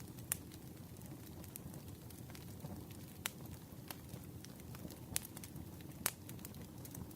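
Wood campfire burning: a low, steady rush of flame with scattered sharp crackles and pops from the burning logs, four of them clearly louder than the rest.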